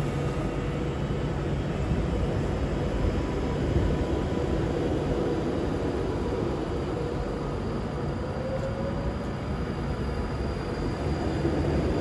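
Avanti West Coast Class 390 Pendolino electric train pulling out of the station, a steady rumble with a faint whine that rises slightly near the end as it picks up speed.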